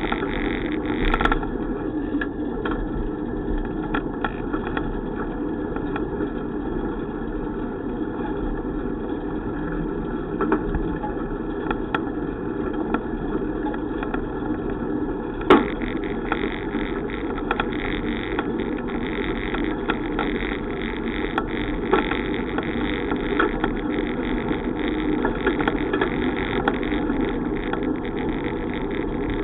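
Steady rumbling road and wind noise from riding a bicycle, with a sharp knock about a second in and another about halfway through.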